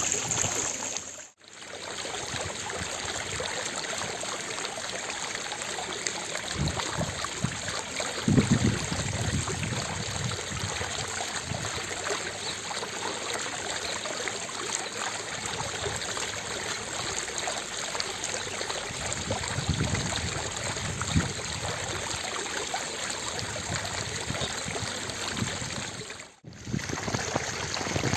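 Fountain water splashing and falling steadily, an even rushing noise. It cuts out briefly twice, about a second in and near the end, and there are a couple of short low rumbles along the way.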